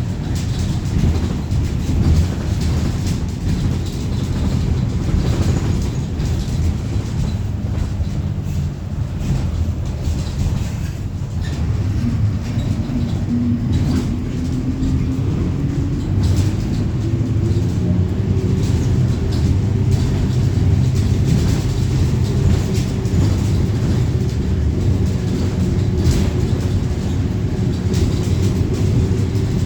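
Mercedes-Benz OF-1721 city bus heard from inside while driving: a steady low diesel rumble with a whine that rises in pitch as the bus picks up speed about halfway through, over constant knocking and rattling from the Caio Apache Vip IV body.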